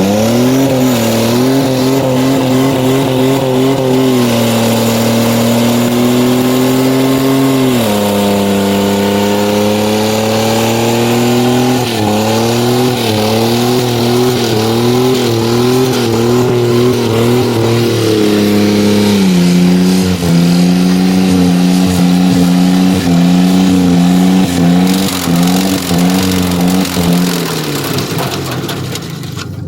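Ford Ranger's V6 engine held at high revs under full load in a truck tug-of-war. Its pitch wavers and jumps: it drops about 4 s in, surges again around 8 s, wobbles up and down, drops again around 19 s, and tails off near the end.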